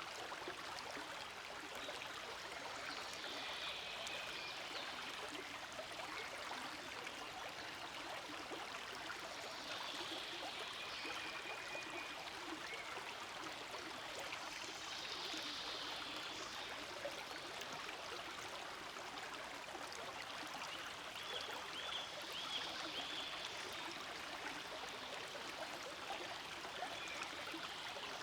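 Forest stream flowing steadily, an even rush and trickle of water.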